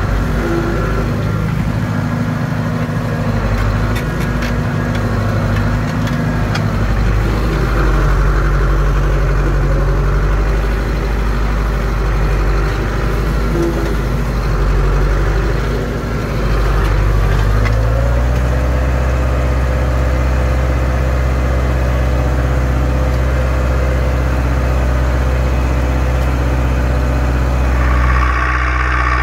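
Zetor 6245 tractor's four-cylinder diesel engine running steadily, its pitch shifting to a new steady note about two-thirds of the way through.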